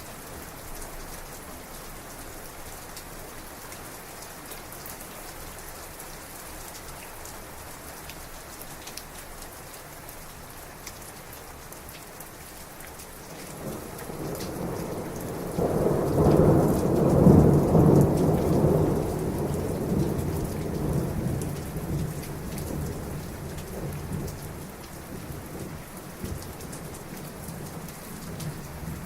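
Steady heavy rain pattering, with a long roll of thunder building about halfway through, loudest a few seconds later, then slowly rumbling away.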